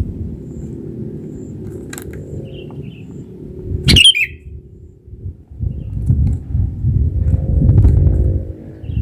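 Low rumbling noise on the microphone throughout, swelling in the second half. About four seconds in, a single short harsh bird call cuts through, with a fainter click-like sound about two seconds in.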